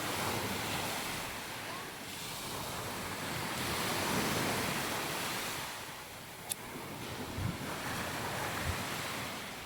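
Sea waves washing onto a sandy beach, the surf noise swelling and fading, loudest about four seconds in.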